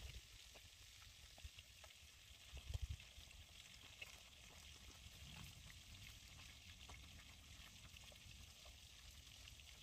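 Faint, steady sizzle of fish frying in oil, with scattered small crackles and a short low bump about three seconds in.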